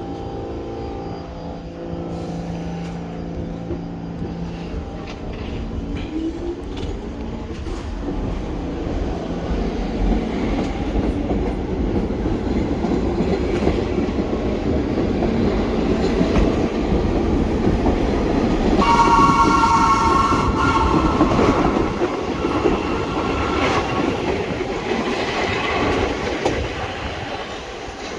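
Train running past on subway tracks, wheels clattering, its rumble building steadily to a peak about two-thirds of the way through. A horn sounds at the peak for about two seconds.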